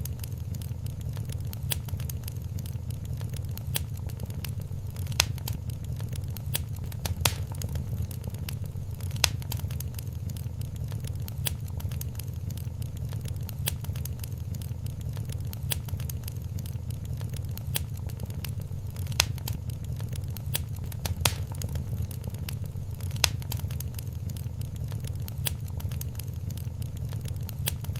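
Wood fire crackling steadily in a fireplace: a constant low rumble of the flames with irregular sharp pops and snaps, a few louder ones every couple of seconds.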